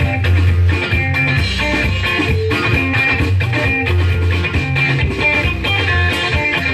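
Live band music with guitar, a heavy bass line and a steady beat.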